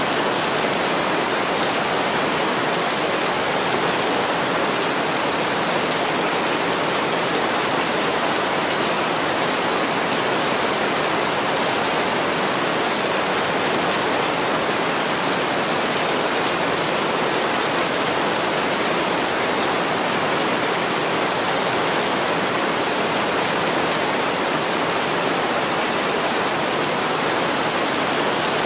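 Heavy rain falling steadily on a window, an even hiss that never lets up.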